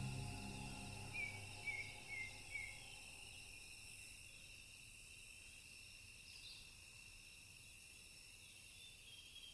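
Faint, steady chirring of insects such as crickets, with four short chirps about a second in as a meditative music track fades out at the start.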